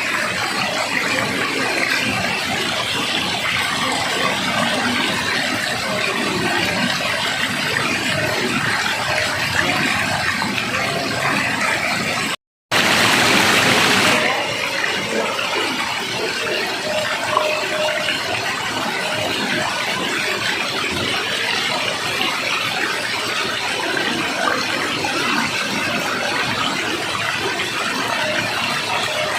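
Rushing water, a steady full noise with no let-up. About twelve seconds in it cuts out for a moment and comes back louder and brighter for a second or so before settling back.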